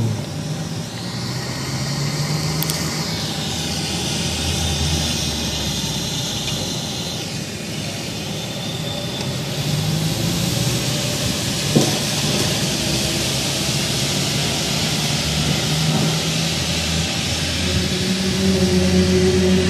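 A long, low drone made of a few steady tones that shift over time, with a hiss above it, of the kind posted as an unexplained 'strange sound in the sky'. A single sharp click comes about twelve seconds in.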